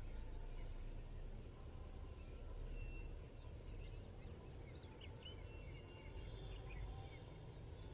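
Several small birds chirping and whistling at once in short high calls, over a steady low background rumble.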